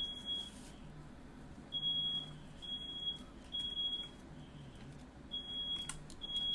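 Smoke alarm sounding its three-beep pattern: three short high beeps, a pause, then three again, repeating. It has been set off by the smoke from fireworks lit indoors.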